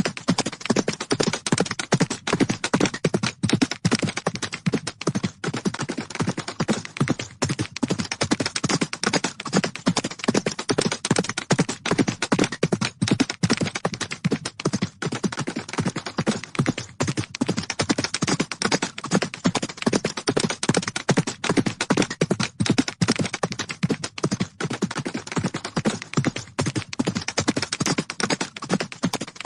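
Horses galloping: a fast, dense, unbroken drumming of hoofbeats on the ground.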